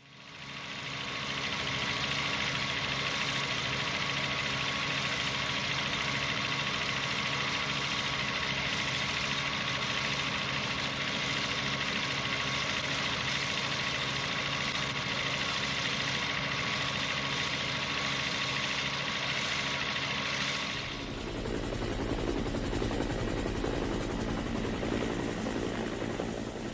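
Helicopter running steadily, a dense, even hum of engine and rotor. About 21 s in, the sound changes abruptly to a deeper rumble with a thin high whine.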